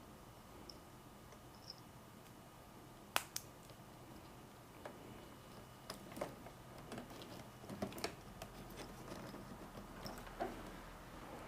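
Faint handling of a plastic wiring connector: one sharp click about three seconds in, then scattered light clicks and rustles as the LED light's lead is plugged into the Y-adapter harness and the wire is handled.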